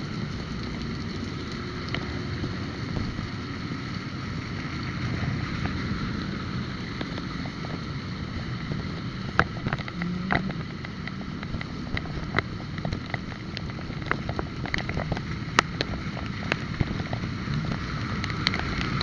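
Steady road and traffic noise with wind buffeting the microphone on a moving bike, with scattered sharp clicks and ticks.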